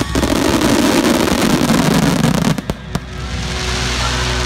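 Star mine fireworks barrage: dense, rapid crackling and popping of many shells for about two and a half seconds, then a couple of sharp reports before the crackle falls away about three seconds in and a steadier background sound rises.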